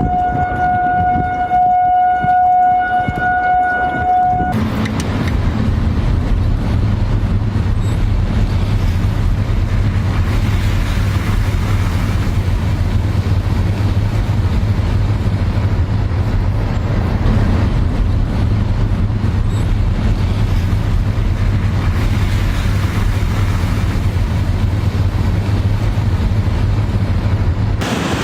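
A tornado warning siren sounding one steady tone over wind noise. About four and a half seconds in it cuts to a loud, steady rush of wind buffeting the microphone, with a heavy low rumble.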